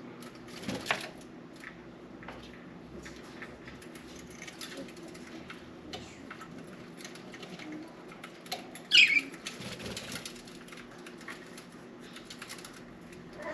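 Budgerigars bathing: scattered small patters and ticks of wings fluttering and splashing, with a louder flurry about a second in. One short budgie chirp falls in pitch about nine seconds in.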